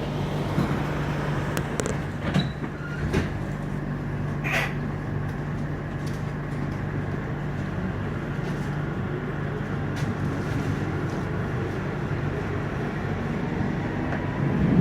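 Interior of a Frankfurt U-Bahn U8 railcar: a steady electrical hum, with scattered clicks and knocks in the first few seconds and a short hiss about four and a half seconds in.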